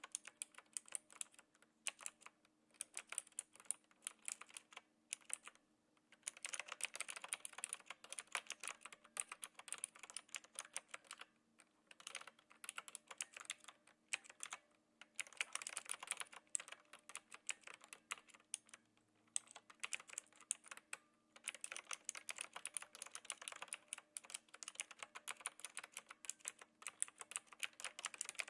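Knewkey Rymek typewriter-style mechanical keyboard with clicky blue switches, typed on in quick runs of key clicks broken by brief pauses.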